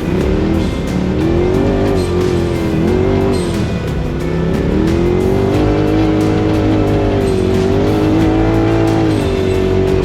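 Side-by-side UTV engine revving, its pitch rising and falling as the throttle opens and closes, mixed with background music that has a steady beat.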